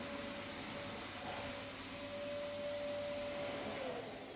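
A motor running with a steady whine, then switched off near the end, its pitch falling as it spins down.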